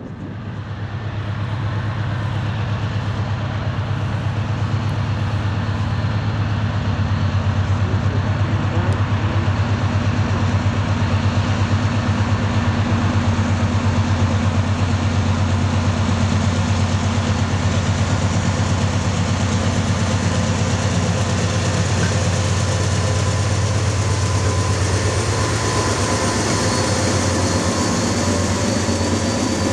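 Diesel-electric freight locomotives working as the train approaches and passes close by: a loud, deep engine drone with a steady throb, swelling over the first couple of seconds and then holding.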